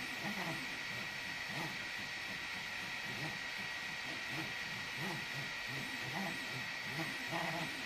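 EasyThreed K10 mini 3D printer running a print: its stepper motors whir in short pitched notes that change several times a second as the head and bed move, over a steady high hiss.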